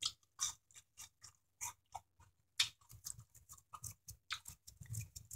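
A person chewing a mouthful of green bean fries close to the microphone: faint, irregular mouth clicks and small crunches.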